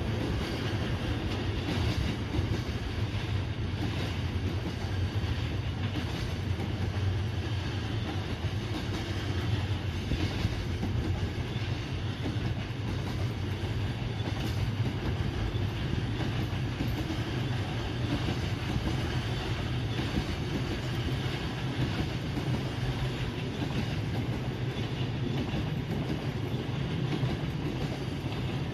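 Freight train hauled by a JR Freight EF210 'Momotaro' electric locomotive rolling steadily past, with a continuous low hum and wheels clicking over rail joints.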